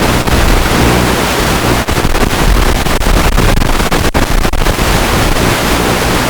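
Wind buffeting the microphone: a loud, steady rush heaviest in the low end, broken by a few brief dropouts.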